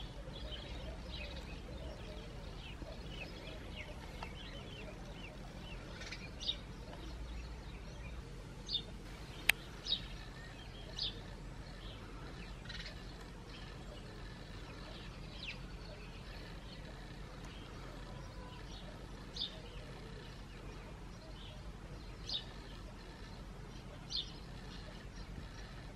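Small garden birds chirping now and then, short single high chirps every few seconds over a faint steady background hum. One sharp click about nine and a half seconds in.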